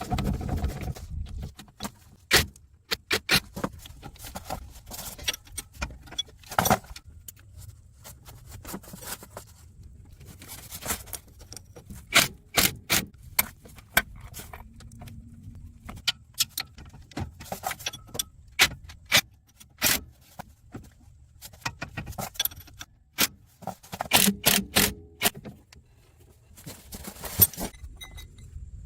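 Metal hand tools and car parts being handled: irregular sharp clinks, clicks and knocks, some in quick runs.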